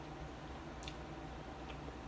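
A few faint, short clicks over a low steady hum, the clearest a little under a second in.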